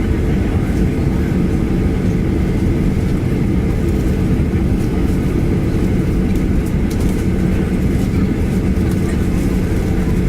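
Steady low rumble of a Boeing 737-800's CFM56 jet engines heard inside the passenger cabin, with a steady hum running through it and a few faint clicks.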